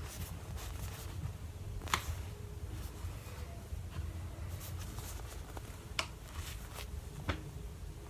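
Faint rustling of a squishy's plastic packaging being handled, with a few light clicks: one about two seconds in and two more near the end.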